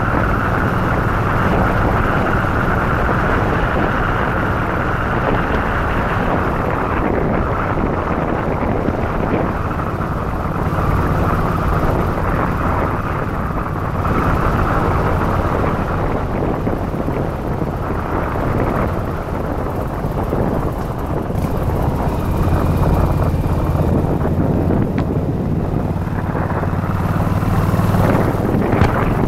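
Yamaha Virago XV1100's air-cooled V-twin engine running steadily under way, with wind rushing over the microphone.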